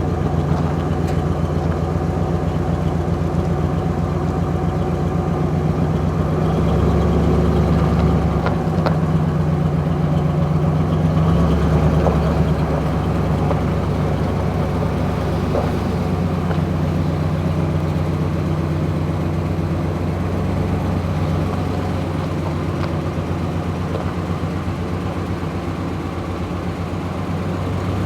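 Vehicle engine idling steadily, its speed rising slightly twice, about a quarter and about two fifths of the way in, with a few light knocks.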